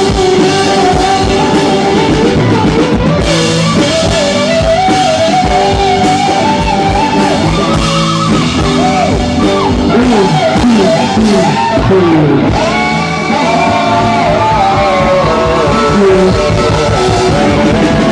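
A live rock band playing: drum kit, bass, keys and electric guitar, with a pitched lead line that bends and slides over the band.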